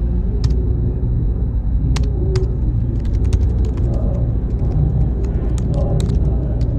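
Computer-room ambience: a steady low machine hum with a faint high whine, and scattered light clicks that come thicker from about halfway through.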